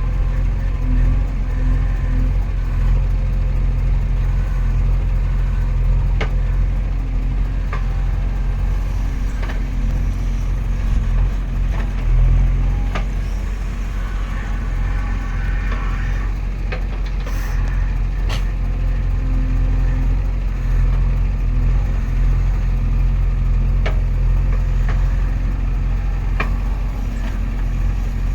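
Heavy diesel engine running steadily, with a few short sharp clanks now and then.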